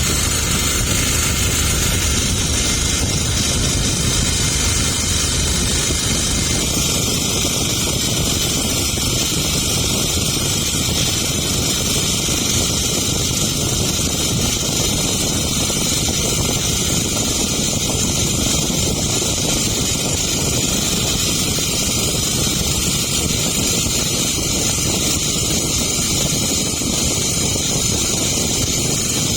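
A boat's engine running steadily under way, mixed with wind noise on the microphone.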